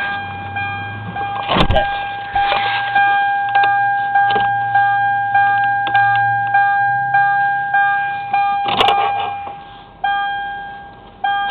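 A dashboard warning chime dinging over and over, about every 0.6 seconds, while the 1994 Toyota Camry's 2.2-litre four-cylinder engine starts cold early on and settles to a low idle. A couple of short clunks sound, one near the end.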